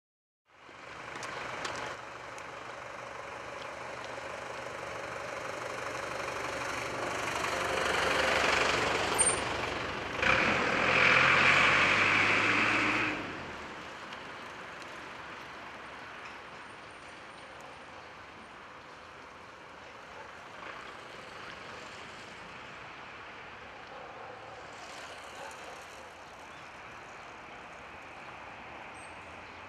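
Mizushima Rinkai Railway DE70-class diesel locomotive running with a freight train, its engine hum growing louder until it is loudest about 10 to 13 seconds in. The engine sound then drops off sharply, leaving a steadier, quieter noise of the freight train rolling on. There is a single sharp click about 9 seconds in.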